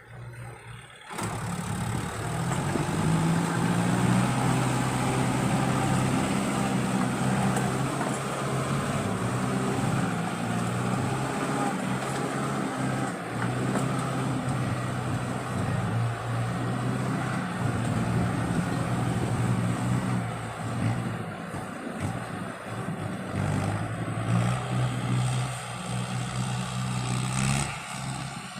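Kubota MU5702 tractor's diesel engine working under load while ploughing: a steady drone whose pitch rises and falls a little. It starts after a brief drop in level just at the beginning.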